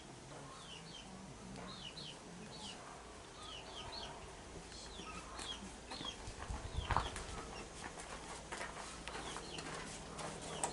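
Birds chirping in short, quickly falling notes, several in a row, again and again. A dull thump about seven seconds in.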